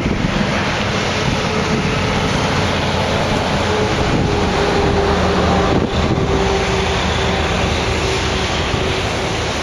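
Diesel-hauled freight train running past, a steady rumble with a faint sustained hum, under wind buffeting the microphone.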